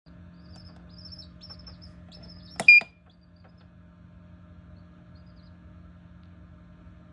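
Newly hatched chick peeping in short high chirps over the steady hum of an egg incubator's fan. About two and a half seconds in, a loud sharp click with a brief beep cuts in, and the peeping fades after it.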